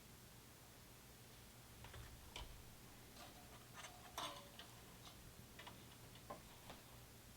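Near silence with a faint steady low hum, broken by a scattering of soft, irregular clicks and taps from about two seconds in until near the end.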